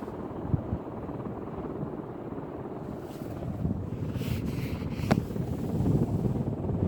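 Craftmade 52-inch outdoor ceiling fan running on high speed: a steady rush of air from the spinning blades, buffeting the microphone. There is a sharp click about five seconds in.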